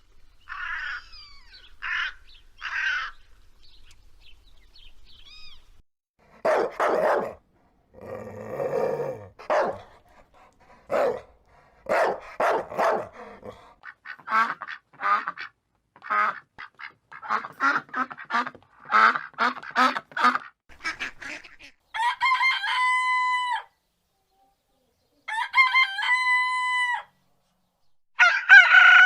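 Poultry calling: a long run of short, separate squawks and clucks, then two long, level crows a few seconds apart near the end.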